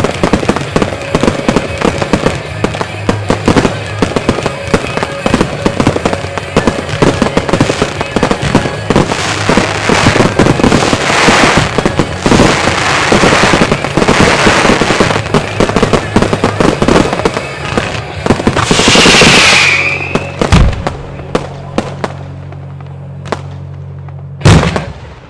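Fireworks finale: a dense barrage of rapid bangs and crackling that swells, then a loud crackling surge with a falling whistle about three-quarters of the way through. After that only a few scattered bangs, and one last loud bang near the end.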